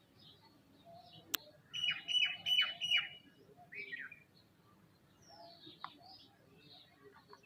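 Small birds chirping and calling at a feeder, with a loud run of harsh calls about two seconds in and a sharp click just before it, then scattered fainter chirps.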